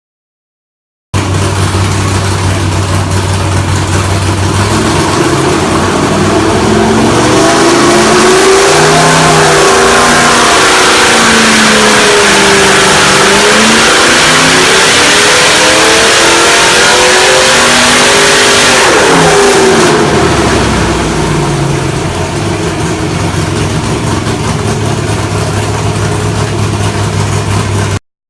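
Engine idling, then revved up and held at high revs for about twelve seconds with the pitch wavering, then dropping back to idle. The sound starts and stops abruptly.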